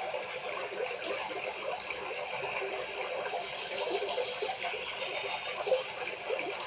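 Aquarium water bubbling and trickling steadily, with many small bubble pops over an even hiss.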